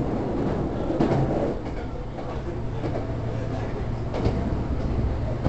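Hankyu Railway electric train running at speed: a steady low rumble of wheels on rails, with a few clicks from rail joints.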